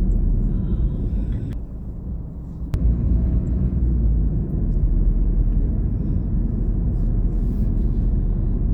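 Steady low rumble of a car on the move, with road and engine noise and a few faint clicks.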